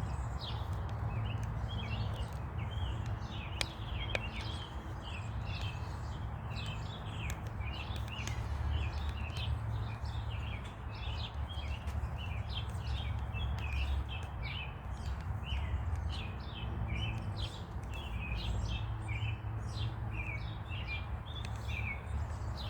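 Many small birds chirping continuously, short high chirps overlapping one another, over a steady low rumble. Two faint clicks come about four seconds in.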